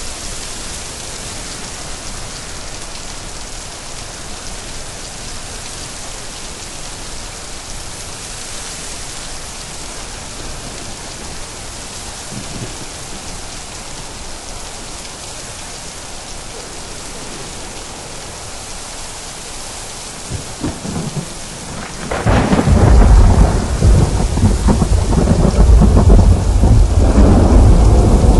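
Steady rain hissing, then thunder rumbling loud and deep from about three-quarters of the way in, with faint low rumbles before it.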